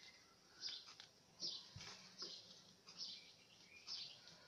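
Faint bird chirps repeating about once a second, with soft rustling and clicks of paper being folded and creased by hand.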